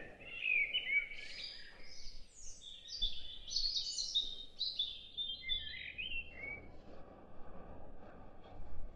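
A songbird singing a long, varied run of quick high chirps and warbles that stops after about six seconds.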